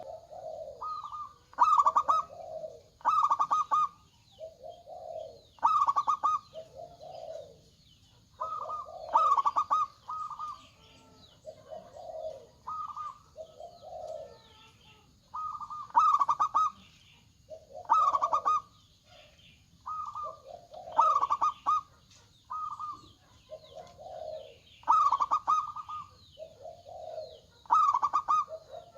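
Zebra dove (perkutut) cooing: rolling coo phrases repeated every couple of seconds, a lower note alternating with higher, louder ones.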